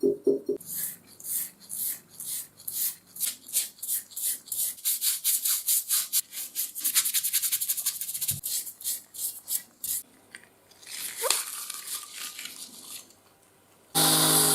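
Rapid back-and-forth scrubbing strokes, about three a second at first and quickening to around six a second midway, then a few slower strokes. A loud steady machine starts up right at the end.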